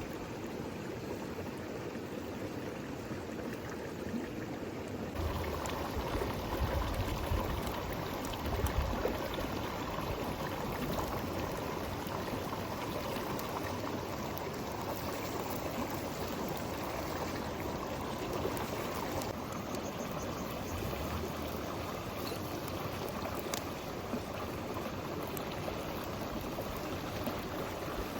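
Steady rushing water noise that turns abruptly brighter about five seconds in.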